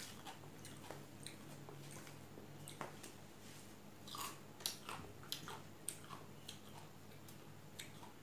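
Close, wet chewing and mouth clicks of a person eating rice and fish curry by hand, with a cluster of sharper smacks about four to six seconds in, over a faint steady low hum.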